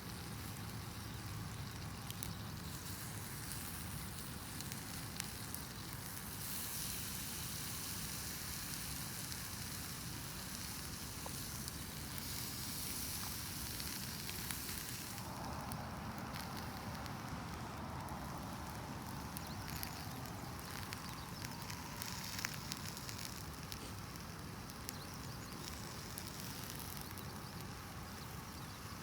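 Wood campfire crackling with scattered sharp pops, and canned mackerel with cheese sizzling over it; a stronger hiss joins in about halfway through.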